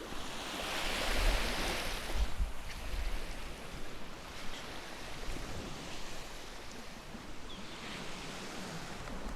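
Wind blowing across the microphone outdoors: a steady rushing hiss with low rumbling buffets, strongest about one to two seconds in.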